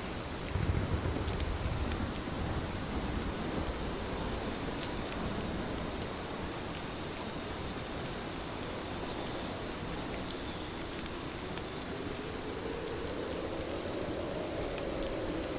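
Heavy rain falling steadily in a dense, even hiss. A low rumble swells briefly about half a second in.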